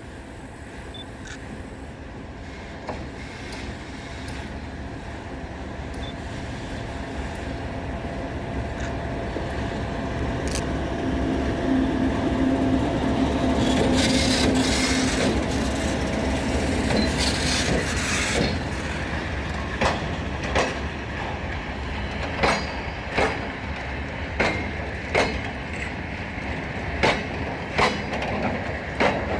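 Freight train approaching and passing. The running noise builds steadily to its loudest about halfway through, then the wagons' wheels click over the rail joints in a regular rhythm.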